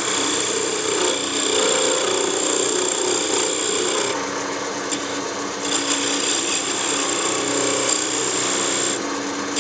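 Wood lathe running with a chisel cutting into the spinning wood of a small turned ornament, a steady motor hum under a rough scraping cut. The cut eases off briefly about four seconds in and again near the end.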